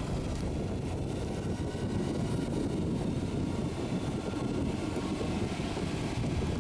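Heavy truck's engine running steadily under way, a constant low rumble without marked revving or gear changes.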